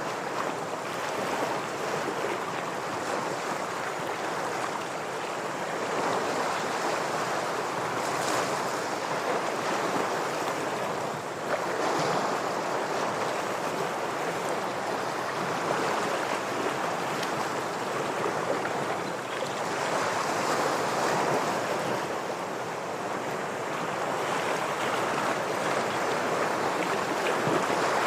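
Ocean waves washing against shoreline rocks: a continuous surf wash that swells and eases every few seconds.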